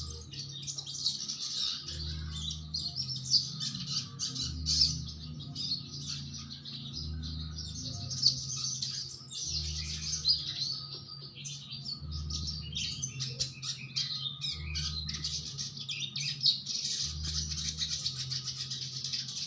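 A sogon bird singing non-stop, a dense run of rapid, high chirping phrases. Underneath is a low hum that pulses on and off about every two and a half seconds.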